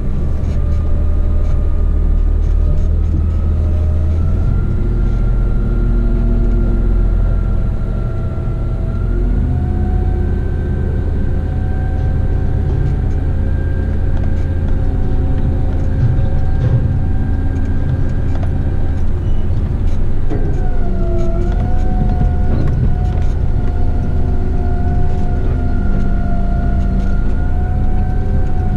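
Heavy truck's diesel engine and drivetrain heard from the cab while driving on a dirt road: a deep steady rumble with a steady whine over it. The pitch creeps up, sags briefly about two-thirds of the way through, then climbs back.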